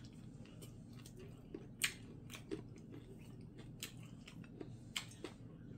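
A person chewing a meal of stir-fried chicken feet, with several sharp crunches and clicks, the loudest about two seconds in, over a low steady room hum.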